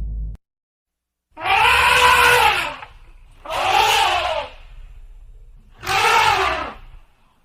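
A loud screaming call, repeated three times, each lasting about a second and rising then falling in pitch.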